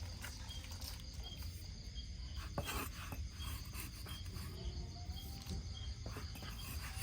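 Insect chirping in a steady rhythm, a short high chirp a little more than once a second, over a low rumble, with one sharp knock about two and a half seconds in.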